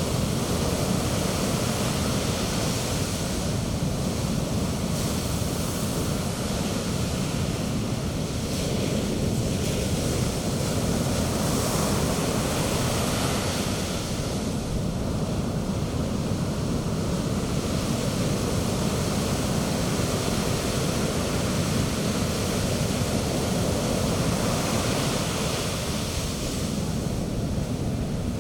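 Sea waves breaking and washing up the beach in a steady roar of surf, with the white foam hissing in swells every few seconds. Wind rumbles on the microphone.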